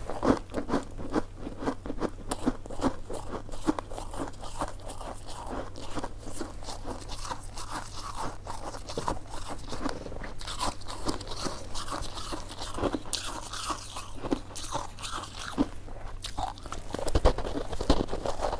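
Close-miked eating: someone biting and chewing coconut sticky rice cake, a dense run of small irregular mouth clicks and crunches several times a second, with a louder bite near the end.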